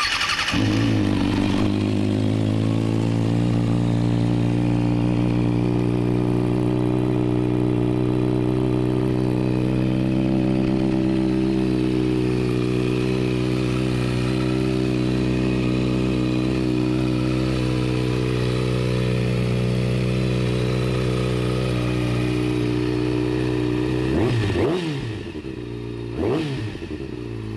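A 2011 Kawasaki Ninja ZX-6R's inline-four engine, breathing through an Akrapovic mid-pipe and slip-on exhaust, fires up and settles into a steady, deep, throaty idle. Near the end the throttle is blipped twice, the revs rising and dropping back to idle each time.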